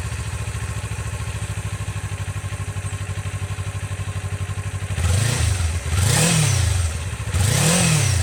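2020 Kawasaki Ninja 400 parallel-twin engine on its stock exhaust, warmed up and idling steadily, then revved three times starting about five seconds in, the pitch rising and falling with each blip.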